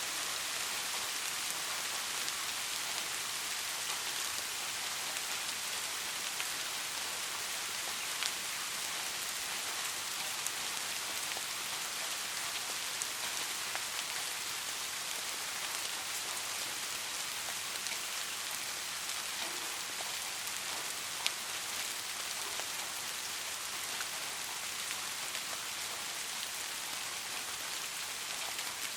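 Soft, steady rain falling: a continuous even hiss with a few sharper single-drop ticks scattered through it.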